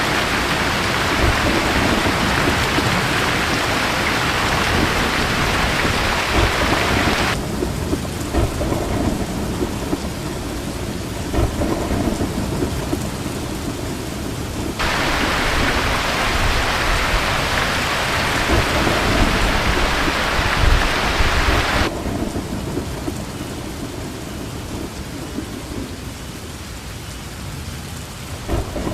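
Heavy rain falling steadily, with low rolling thunder underneath. The rain's hiss drops abruptly about seven seconds in, comes back about fifteen seconds in, and drops again about twenty-two seconds in.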